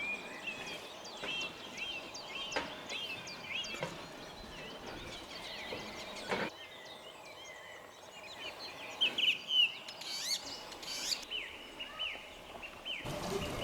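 Birds chirping and singing in quick, short calls, with a few sharp clicks in between.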